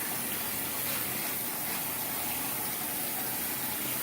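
Water running steadily, rinsing perm solution out of the hair through a perm rinsing cap.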